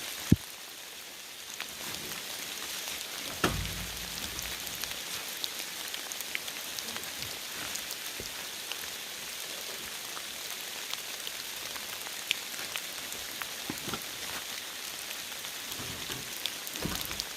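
Steady heavy rain hissing, with a few scattered knocks and clicks; the loudest is a thump about three and a half seconds in.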